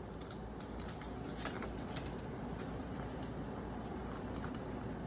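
Small clicks, taps and light rustles of a model locomotive and its packaging being handled, over a steady low background hum.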